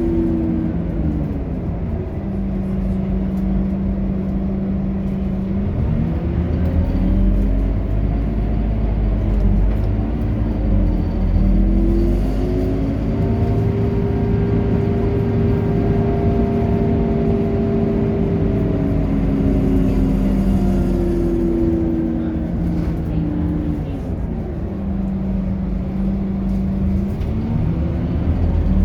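Scania K230UB city bus's five-cylinder diesel engine, stop-start running: its note drops to idle for a few seconds, rises as the bus pulls away and holds while it drives on, then falls back to idle and begins to rise again near the end.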